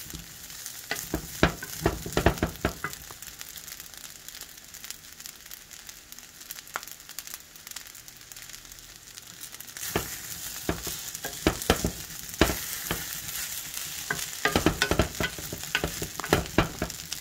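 Shrimp and vegetable fried rice sizzling in a nonstick pan, with a steady high hiss. A wooden spatula scrapes and taps the pan as the rice is stirred in spells: near the start, and again from about ten seconds in to near the end.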